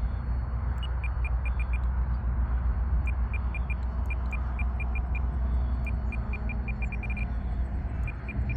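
Quick runs of short, high beeps from an RC radio transmitter as its trim buttons are pressed repeatedly, over a steady low rumble.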